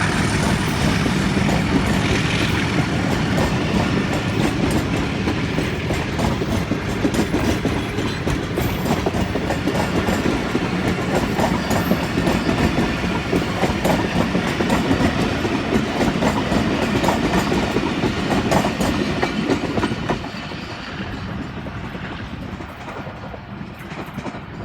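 Passenger coaches of a departing train rolling past on the track, wheels clacking over the rail joints in a steady stream of clicks, fading as the train pulls away near the end.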